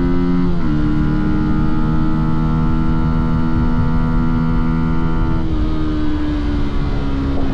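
Fantic Caballero 125's single-cylinder four-stroke engine and exhaust running under way. The pitch drops suddenly about half a second in, holds steady, then softens and sinks slowly after about five and a half seconds as the throttle eases off.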